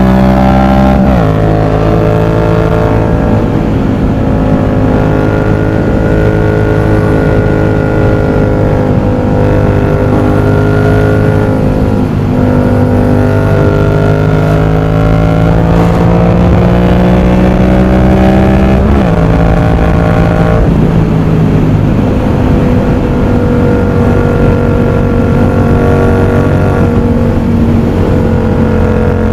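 Yamaha MT-07's parallel-twin CP2 engine through an aftermarket exhaust while riding: a loud, steady note that climbs slowly and drops sharply several times at gear changes.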